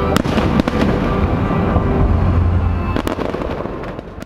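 Aerial fireworks exploding: a few sharp bangs, the last about three seconds in, over a continuous low rumble, dying away near the end.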